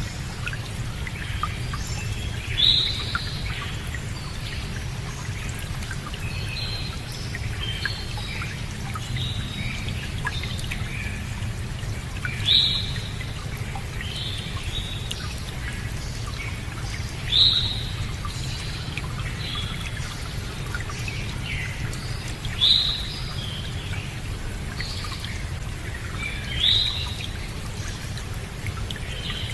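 Songbirds chirping and calling over a steady flow of running water. One bird gives a louder, sharp call about every four to five seconds, five times.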